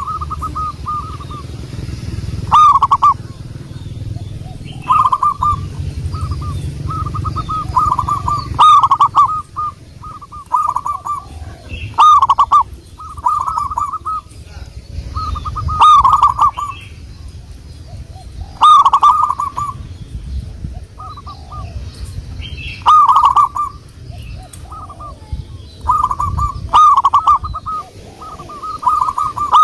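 Zebra dove (local perkutut) cooing in repeated rolling phrases, with a loud phrase every three to four seconds and quieter coos in between, over a low background rumble.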